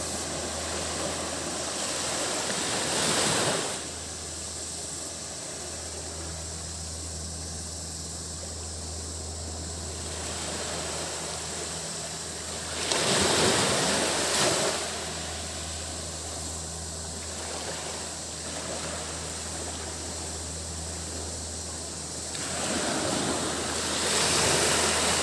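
Small sea waves breaking and washing up the beach three times, about ten seconds apart, over a steady high drone of cicadas and a low steady hum.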